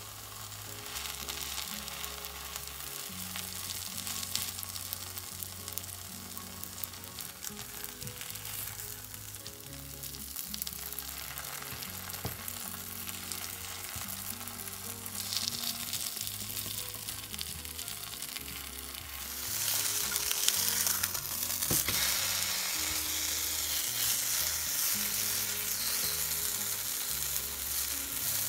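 Shredded sweet potato and cheese frying in oil in a small square nonstick pan, sizzling steadily. The sizzle grows louder about two-thirds of the way through.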